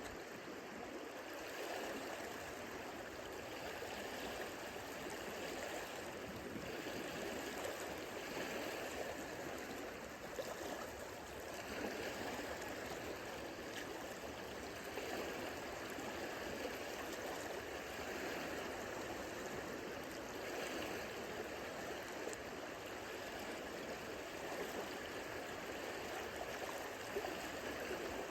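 Small lake waves lapping at the shoreline: a steady wash of moving water with small rises and falls.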